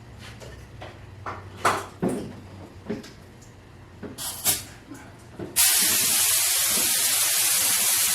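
A few scattered knocks and clunks over a low hum, then about five and a half seconds in a compressed-air paint spray gun starts hissing, loud and steady.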